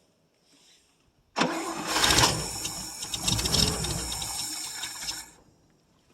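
1959 International B120 pickup's engine being cranked by its starter for about four seconds, then stopping. The truck's fuel pump is not pulling gas from the tank.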